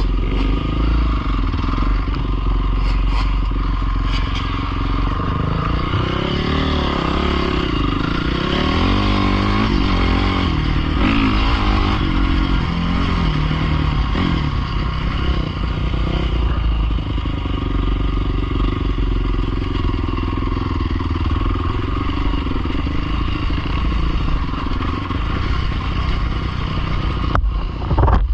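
Pit bike engine running, its pitch rising and falling with the throttle for several seconds, then holding steadier. A sharp knock comes near the end.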